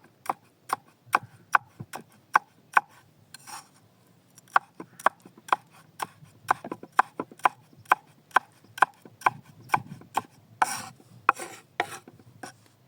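Knife chopping on a wooden cutting board: a steady run of sharp knocks, about two to three a second, with brief pauses between strings of cuts.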